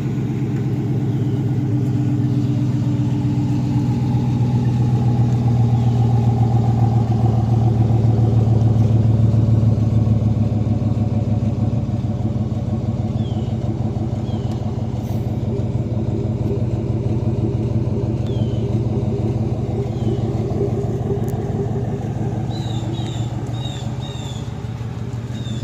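Muffler-deleted 5.3 L V8 of a 2021 Chevrolet Silverado Trail Boss idling through a straight flex pipe on a cold start: a steady deep exhaust rumble that swells over the first ten seconds, then eases as the cold-start high idle settles. Faint short high chirps come in over the second half, several together near the end.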